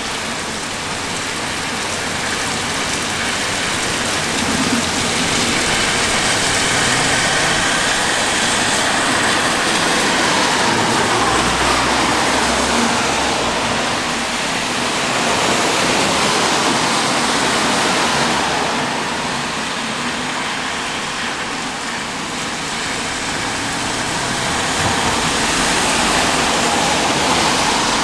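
Steady heavy rain, a dense hiss that swells and eases slowly.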